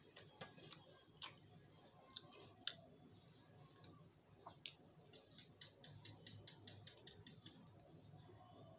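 Faint sounds of a samosa being chewed, with small wet mouth clicks: one sharper click about a third of the way in, and a quick run of clicks, about six a second, in the second half.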